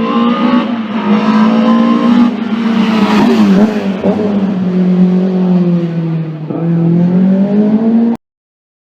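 A classic racing car's engine running hard under acceleration, its note dipping twice and climbing again, then cutting off suddenly near the end.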